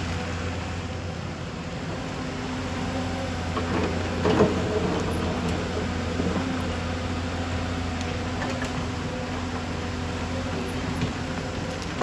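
Excavator engine running steadily, with one short knock about four and a half seconds in.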